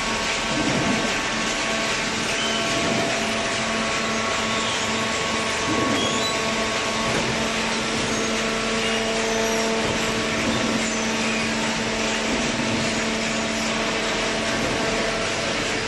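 Self-tying hydraulic cardboard baler running, with a steady hum and hiss from its motor and hydraulic pump.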